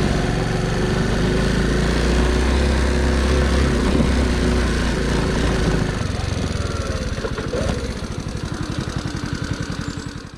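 Honda C90 step-through's small single-cylinder four-stroke engine running under way, with wind rush. About six seconds in, the engine drops off to a slow, even pulsing as the bike slows toward idle.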